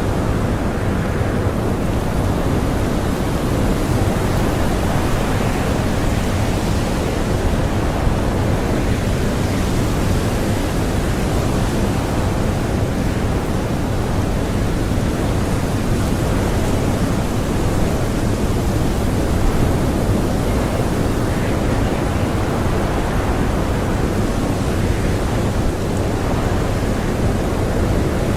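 Strong blizzard wind rushing steadily, swelling and easing a little now and then, with no gusts standing out.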